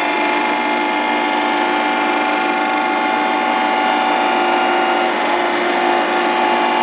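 1974 Rosa RTRC 1000 surface grinder running: a steady machine noise with several held tones, unchanging throughout.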